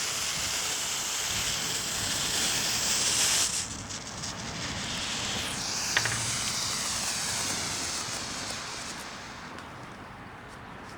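Smoke ball burning and spewing smoke with a steady hiss that drops sharply about three and a half seconds in, then fades out near the end.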